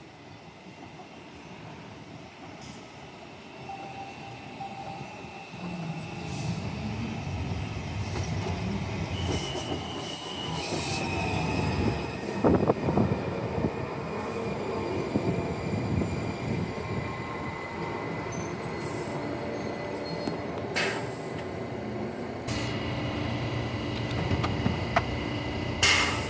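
WMATA Metrorail Red Line train running on the rails: it grows louder over the first several seconds, then holds a steady rumble, with loud clacks of the wheels over the track about halfway through and thin, high-pitched squealing from the wheels or brakes in the second half.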